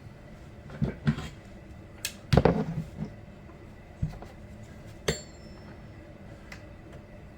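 Metal parts and tools clinking and knocking as they are handled, with the busiest knocking about two and a half seconds in and one short metallic ring about five seconds in.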